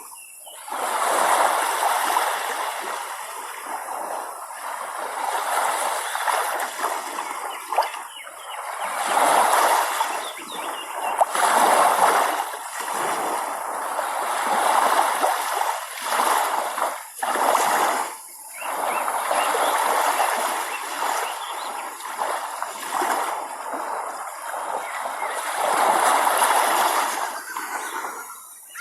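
Small waves washing and splashing on the shore in uneven surges, swelling and falling back every few seconds.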